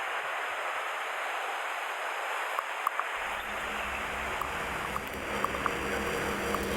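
Steady rushing of mountain stream water, with a few faint clicks. About three seconds in, low background music comes in underneath.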